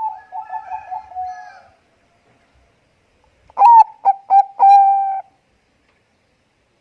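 Bangkok zebra dove (perkutut) singing its cooing song in two phrases: first a quick run of short notes, then, about three and a half seconds in, a louder phrase of clipped notes that ends in one long held coo.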